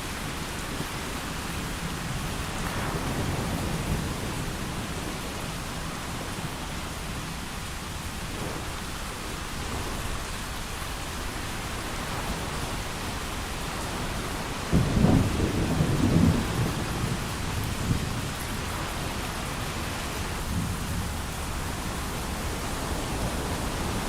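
Steady heavy rain, with low rolling thunder a few seconds in and a sudden, louder thunderclap about fifteen seconds in that rumbles on for about two seconds.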